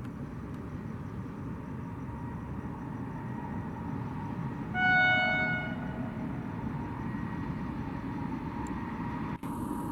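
Indian Railways express train running with a steady low rumble. About five seconds in, the locomotive sounds one horn blast lasting about a second.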